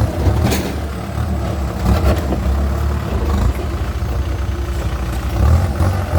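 Kubota M6240SUH tractor's four-cylinder turbo diesel running steadily through an aftermarket 3-inch exhaust pipe, a deep, low exhaust note.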